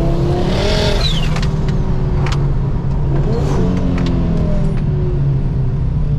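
Turbocharged Mk2 Ford Focus ST engine under load, pulling up in pitch twice. There is a short falling whistle about a second in and a few sharp cracks.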